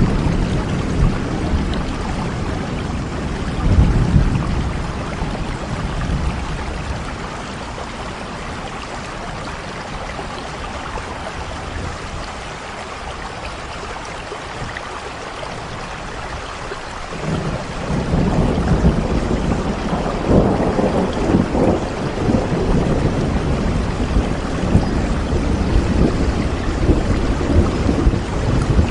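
Steady rain falling, with low thunder rolling underneath: a rumble swells about four seconds in, dies away, and returns about two-thirds of the way through, rumbling on to the end.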